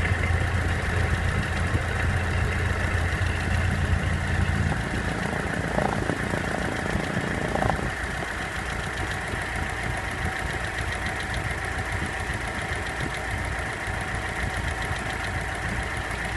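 Volkswagen Passat B5's 1.6-litre ALZ four-cylinder petrol engine idling with a regular knocking from inside the engine, the knock the owner is trying to track down. A deep hum under it drops away about five seconds in.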